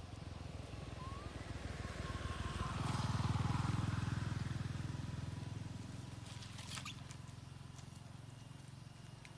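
A motor vehicle passing by: a low engine rumble that grows louder, peaks about three seconds in, and fades away.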